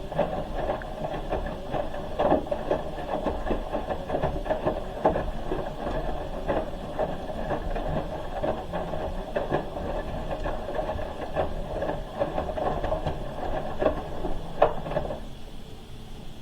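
Hoover H-wash 300 Plus washing machine in its wash cycle: the drum turning with the wet load tumbling, busy with small knocks and clicks, then stopping about a second before the end.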